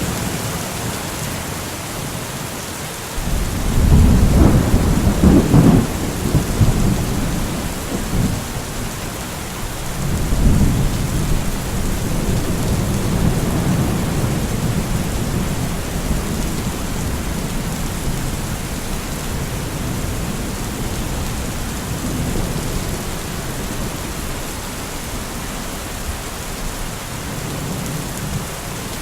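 Steady rain falling with thunder rolling: a loud rumble about four seconds in, then a second, longer rumble about ten seconds in that slowly fades.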